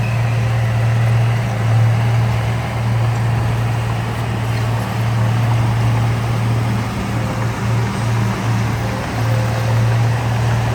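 Heavy diesel engine of earthmoving machinery running steadily, a deep, even drone with no break.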